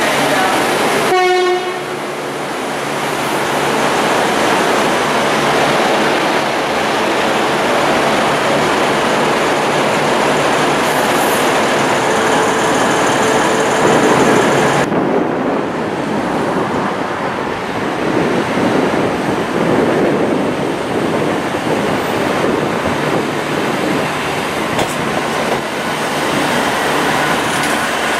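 V/Line VLocity diesel railcars moving through the station close by: a steady rush of wheel and engine noise, with a short pitched horn blast about a second in. About halfway through, the sound changes abruptly to a duller rumble as another train approaches.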